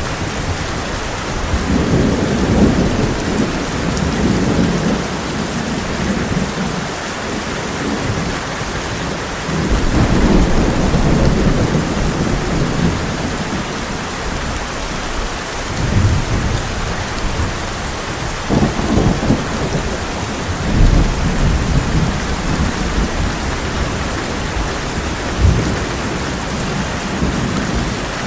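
Heavy rain pouring steadily on a tin roof, with thunder rumbling low several times, in long swells that rise and fade.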